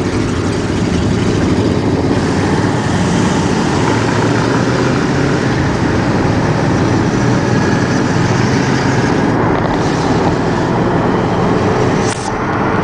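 Motorcycle engine running steadily while riding, with heavy wind rush on the microphone. The noise dips briefly near the end.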